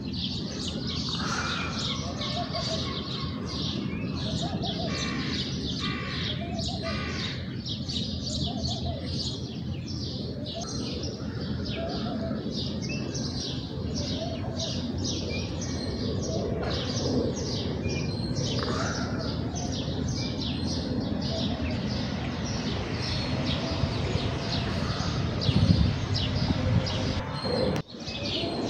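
House sparrows chirping continuously, many short chirps overlapping from several birds.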